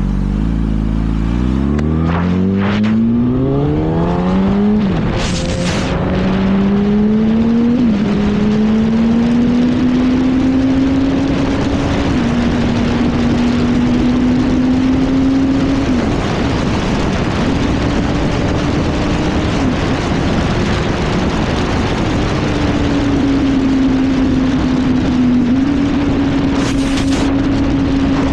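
Sport motorcycle engine under hard acceleration. Its pitch climbs steeply with quick upshifts about five and eight seconds in, then holds high at speed with a few brief dips as it shifts or eases off, over steady wind rush.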